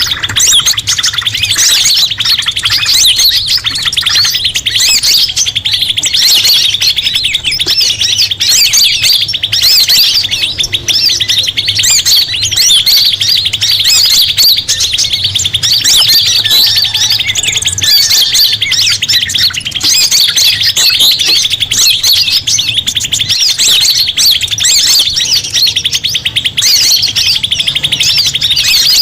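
Bird-lure recording: a dense, unbroken chorus of rapid high chirps and twitters from several small songbirds calling over one another, loud and steady throughout.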